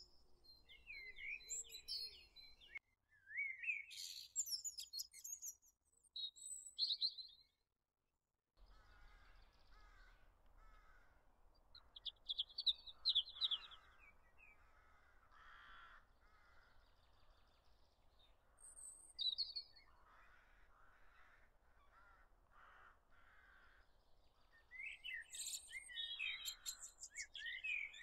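Birds chirping and singing in short high calls and trills, with a brief silent break about eight seconds in.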